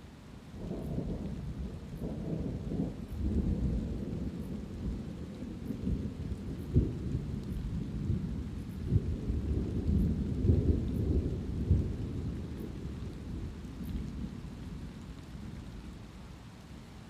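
A long roll of thunder rumbling over steady light rain. It swells about a second in, surges louder several times in the middle and dies away near the end.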